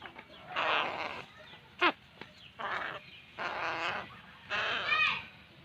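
Crow chick giving harsh, raspy begging calls while being hand-fed, about five calls in a row, one of them a short sharp falling squawk about two seconds in.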